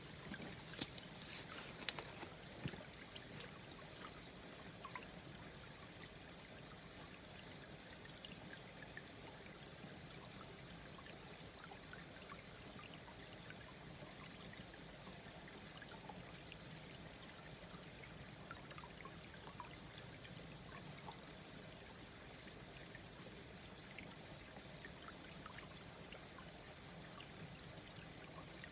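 A small, slow-flowing stream trickling and babbling steadily over stones. A few sharp clicks stand out in the first three seconds.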